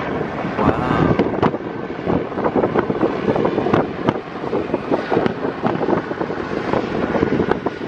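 Aerial fireworks shells bursting in a dense, continuous run of booms and crackles, with wind on the microphone.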